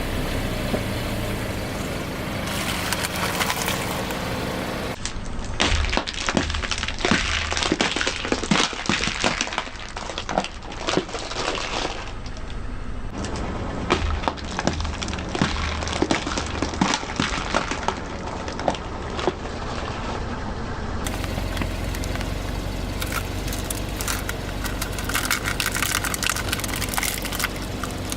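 Car tyre rolling over and crushing brittle objects: many sharp cracks, snaps and crunches come in irregular clusters over a low, steady rumble, and the sound changes abruptly between short clips.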